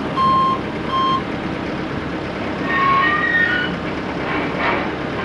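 A forklift's backup alarm beeping twice in steady single-tone beeps, then falling silent about a second in, over the steady running of its diesel engine. A short, higher whine comes in near the middle.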